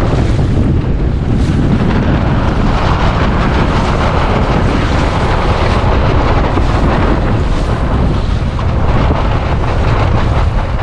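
Strong gusty wind buffeting the microphone over the wash of waves against a small centreboard sailing dinghy's hull as it beats close-hauled, a loud, steady noise throughout.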